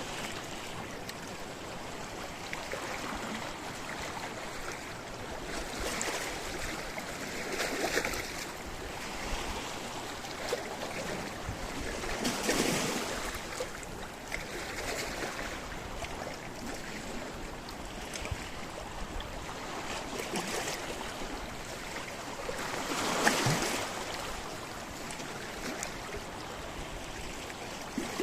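Sea waves breaking and washing over a rocky shore, a steady wash of surf with several louder surges, the biggest near the end.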